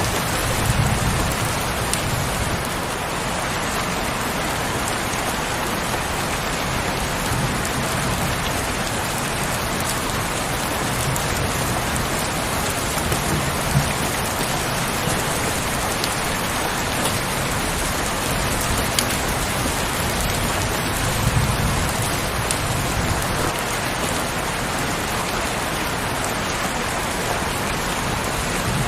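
Steady heavy rain falling, with faint low rumbles now and then and a few sharper drop hits.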